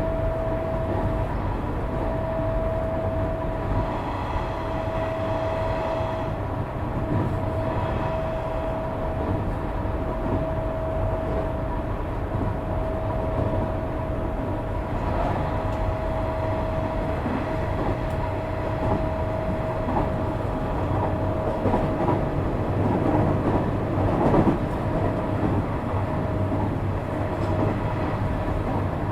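Interior running noise of a Nishitetsu 3000 series electric train under way: a steady rumble of wheels on rail with a constant high whine held throughout, growing somewhat louder for a few seconds near the end.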